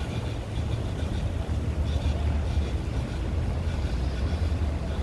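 Low, uneven rumble of wind buffeting the microphone during a snowstorm walk.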